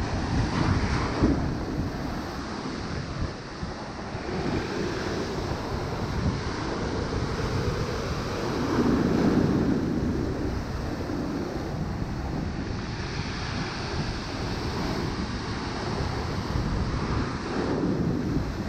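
Big storm swell surging and breaking as waves, with wind buffeting the microphone. The wash rises and falls in loudness and is loudest about nine seconds in.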